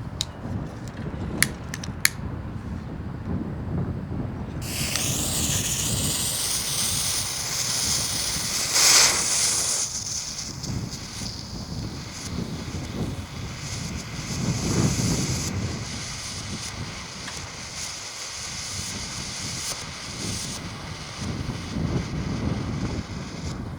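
Wind buffeting the microphone throughout. Three sharp clicks in the first two seconds, then about four and a half seconds in a hiss starts abruptly as the smoke ball's fuse catches, peaking loudly about nine seconds in and carrying on more faintly as the smoke ball burns.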